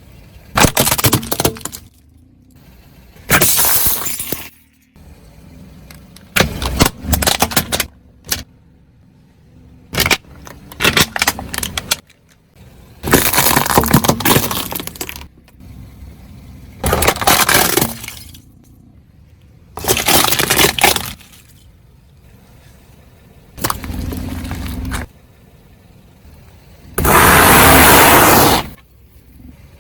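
Plastic toy excavator cracking and crunching under a car tyre, in about nine separate loud crushing bursts of a second or two each with short pauses between.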